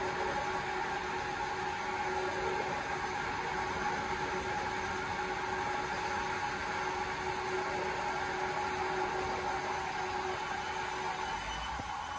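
Electric passenger train at the station, giving a steady hum with a few held tones over a noisy rush; the lowest tone fades out near the end.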